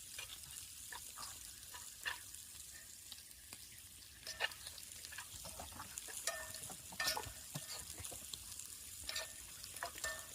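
Stir fry of peppers, onions and mushrooms sizzling in a frying pan, with a steady hiss. A utensil scrapes and clicks against the pan a dozen or so times as the vegetables are stirred, some strikes ringing briefly.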